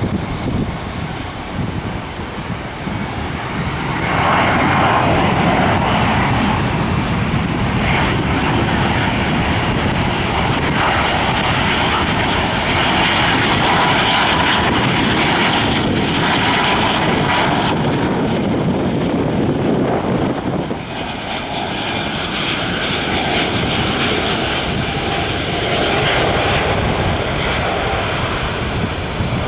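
Jet engines of a landing Boeing 777-200 airliner: a continuous loud roar that swells sharply about four seconds in and stays loud, easing briefly about two-thirds of the way through.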